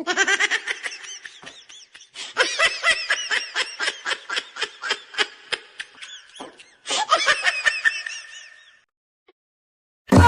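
A person laughing hard: a long run of quick, pitched laughs, about four or five a second, with brief catches for breath around two seconds and six and a half seconds in, trailing off near the end.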